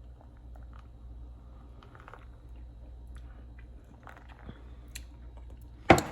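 A person quietly sipping and swallowing a drink, with small scattered clicks, and one loud, brief noise just before the end.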